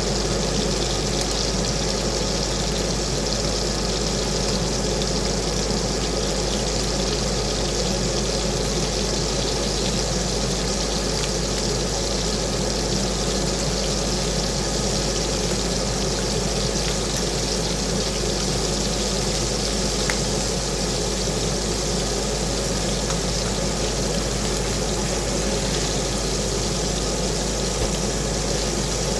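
Bacon sizzling in a frying pan: a steady hiss with small scattered pops, over a steady low hum.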